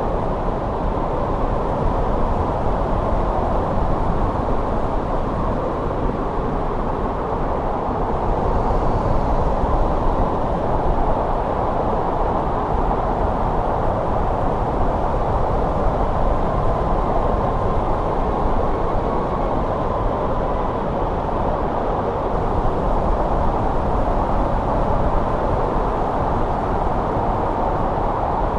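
Steady snowstorm wind blowing, a dense even rush of noise weighted toward the low and middle range. A faint thin whistle comes and goes about two-thirds of the way in.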